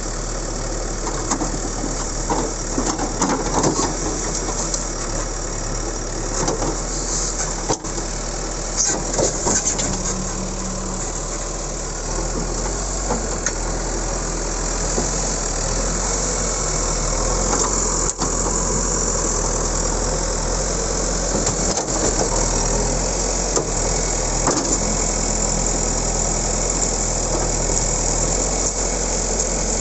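JCB backhoe loader's diesel engine running steadily, with a few sharp knocks and clanks in the first ten seconds or so, then running a little louder from about twelve seconds in.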